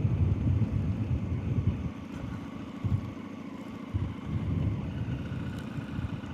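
Motorcycle engine running while riding along, with an uneven low rumble.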